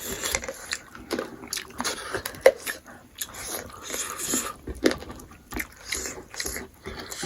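Wet chewing and lip-smacking of someone eating smoked pork: a run of irregular short smacks and clicks.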